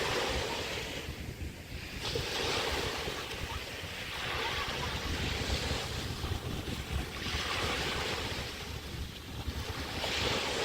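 Small Chesapeake Bay waves washing onto the beach, a new one breaking about every two and a half seconds, with wind rumbling on the microphone.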